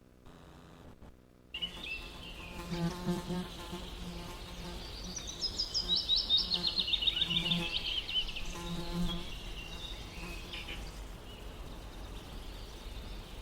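An insect buzzing, its hum swelling and fading several times, starting about a second and a half in; a fast high trill runs through the middle.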